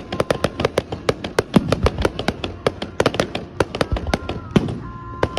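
Fireworks display going off: rapid, irregular bangs and crackles, several a second.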